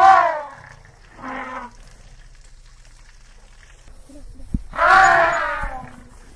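An animal calling three times: a loud call falling in pitch at the start, a shorter, quieter call about a second later, and another loud, longer falling call near the end.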